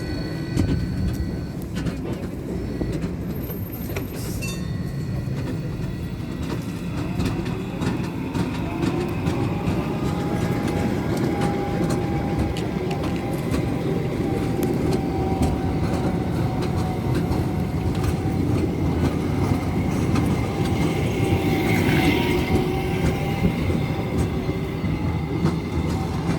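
A tram rolling on its rails with a steady low rumble. Its motor whine rises in pitch for a few seconds, then holds steady. A brief high squeal comes near the end.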